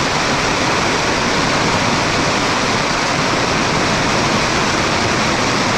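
Super heavy rain falling on a tent, heard from inside: a steady, loud hiss, so loud that people inside can hardly hear each other.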